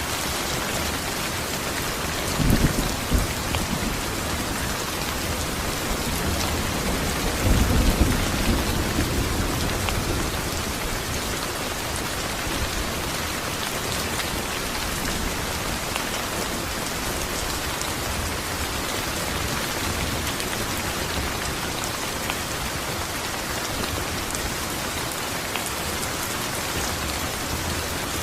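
Steady rain falling, with thunder rumbling low twice: a short rumble about two and a half seconds in and a longer, louder one around eight seconds in.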